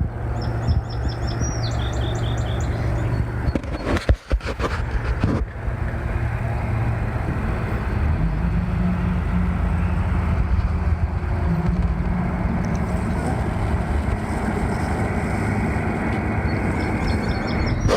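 Engine of the barge crossing with the logging trucks running steadily, a low drone with a deeper hum that firms up about eight seconds in. A bird chirps briefly in quick repeated notes near the start and again at the end.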